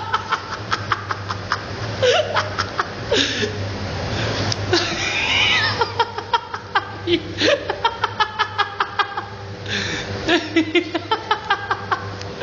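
People laughing hard in runs of quick pulses, over a steady low hum.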